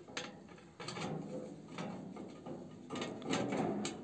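A series of sharp clicks and knocks, with some rustling near the end, as stove parts are handled and fitted together during assembly.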